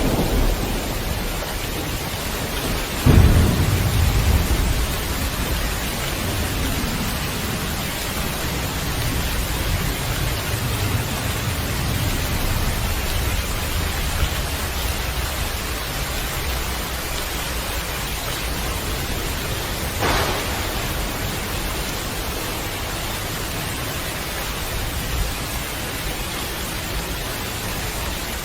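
Steady rain with thunder: a sharp clap about three seconds in rolls off into a low rumble lasting several seconds, and a smaller crack comes later on.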